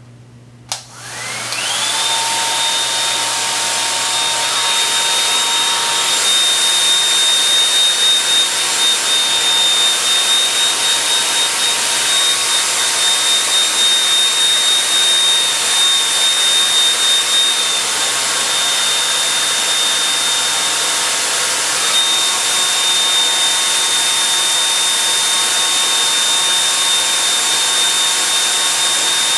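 Gold 'N Hot hair dryer switched on with a click about a second in, its motor whine rising as it spins up, then blowing steadily on medium heat.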